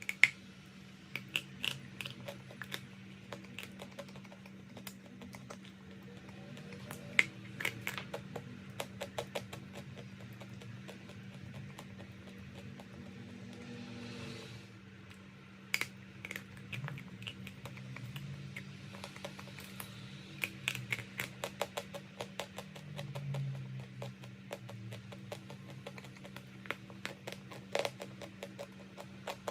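Crisp, irregular crunching and crackling of chalk being bitten or crushed close to the microphone, over a steady low hum.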